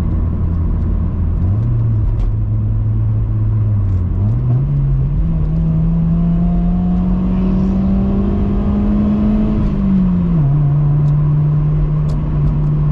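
Honda Civic EP2's 1.6-litre four-cylinder engine heard through an aftermarket cat-back exhaust while driving, with a steady drone. Its pitch steps up twice, climbs slowly under acceleration, then drops sharply about three-quarters of the way through, as on an upshift, and holds steady after that.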